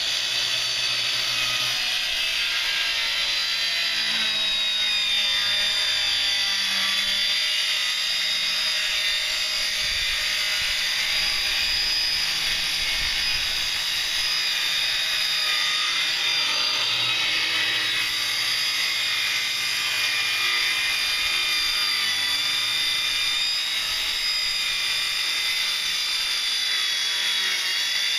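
Handheld power tool running continuously with a steady, high-pitched whine, cutting out rotted wood from a boat seat.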